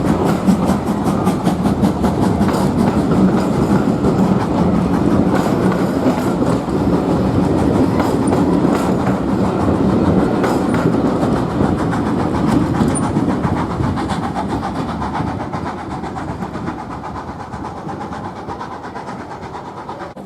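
A heritage train running past on the line, with a rapid regular clatter from its wheels on the track; the sound dies away over the last few seconds as it moves off.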